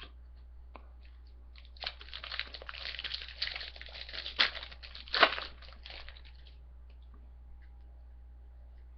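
Crinkling and tearing of a trading-card pack's foil wrapper being opened by hand, in a burst of a few seconds with two sharper crackles near the end.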